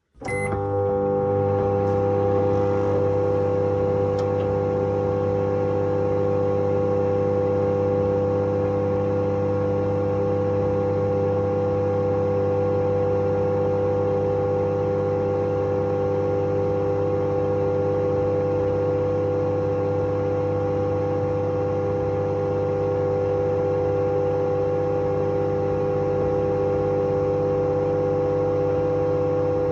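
Microwave oven running with a steady, unchanging hum while it heats candy.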